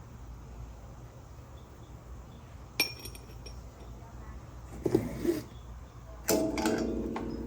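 Glass and metal pieces being handled on a work table: a sharp clink about three seconds in, a brief rustle and knocks near the middle, then a louder knock near the end that leaves a ringing tone slowly fading, over a steady low hum.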